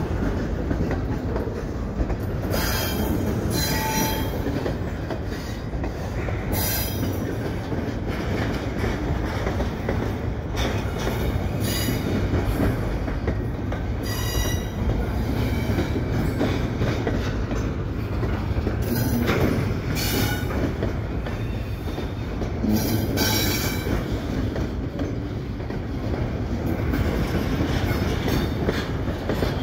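Double-stack container well cars rolling slowly on steel rails as they are backed into a yard track: a steady low rumble, with steel wheels squealing briefly every few seconds.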